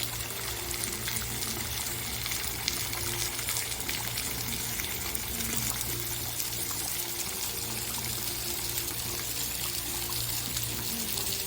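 Water running and trickling steadily, with no break.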